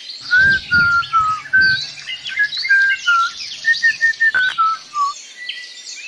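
Songbird singing: a quick run of short, clear whistled notes, about three a second, with fainter high twittering above them, breaking off about five seconds in.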